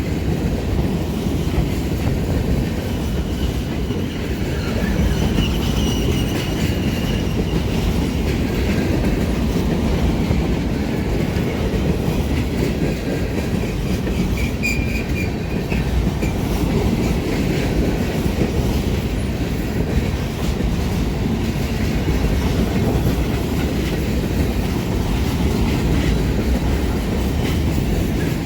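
Union Pacific freight cars rolling past: a steady rumble of steel wheels on rail with clickety-clack over the joints. A faint high wheel squeal comes in twice, about five seconds in and again around fourteen seconds.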